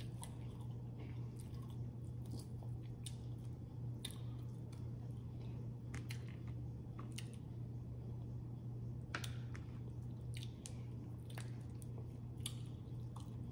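A person chewing food close to the microphone: irregular wet smacks and clicks of the mouth over a steady low hum.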